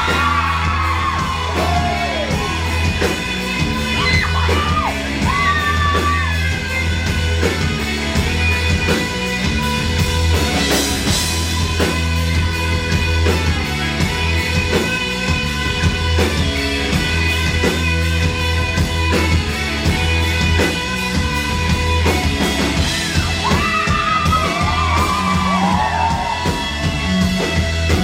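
Rock band playing live with a male lead singer over a strong bass line.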